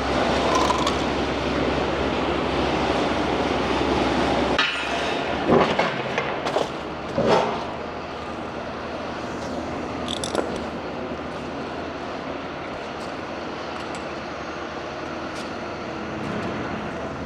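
A steady mechanical running noise for the first few seconds, then several separate metallic knocks and clanks of tools being handled.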